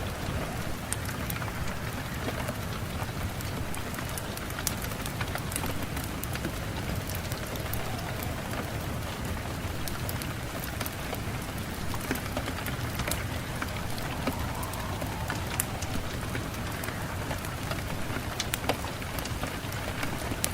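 Steady rain falling, with irregular sharp taps of individual drops landing close by.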